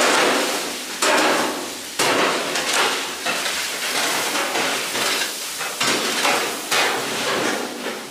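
Onions and green chillies frying in hot oil in a giant cooking pot, stirred with a long metal ladle: a sudden rasping stroke every second or so, each fading into the sizzle.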